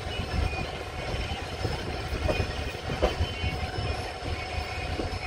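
ICF passenger coach rolling slowly along the track: a steady low rumble with a few sharp clacks of the wheels over rail joints and a faint thin high squeal.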